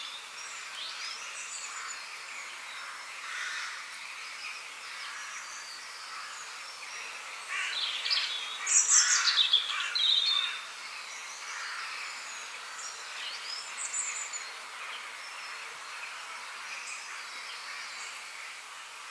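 Several birds singing and chirping over a steady background hiss, with one bird's song loudest for about three seconds near the middle.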